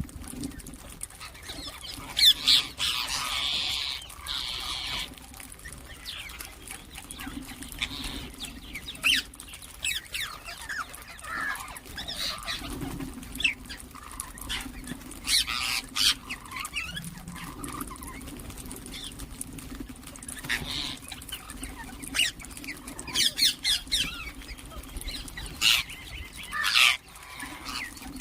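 Ringneck parakeets giving short, sharp squawks and chirps at irregular intervals, with a longer, louder run of screeching calls about two to five seconds in, over a steady low hum.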